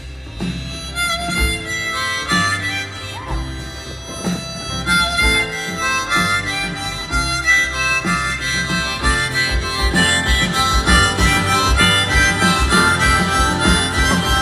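A band playing an instrumental break, with a harmonica carrying the melody over a steady low beat. It grows louder through the passage.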